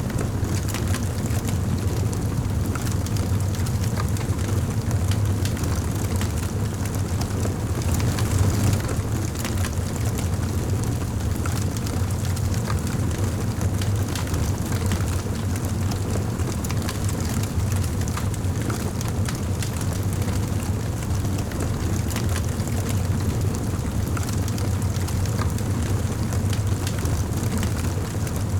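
Wood fire in a fireplace crackling and popping over a steady low rumble of the flames, with a slightly louder pop about eight seconds in.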